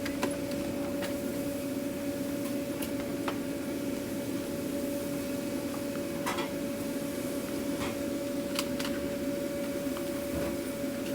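A steady mechanical hum holding two constant tones, with scattered light clicks and taps over it.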